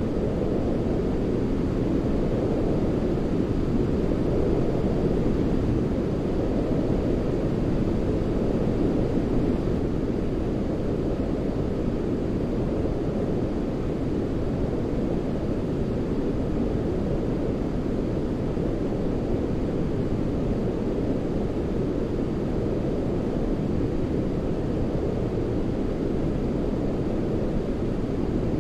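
Continuous steady white noise for baby sleep, a deep even rush weighted toward the low end, more like brown noise than bright hiss, with no change in level.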